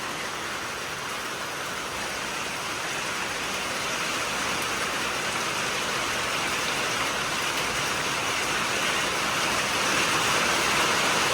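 Heavy rain pouring down steadily, the downpour growing gradually louder.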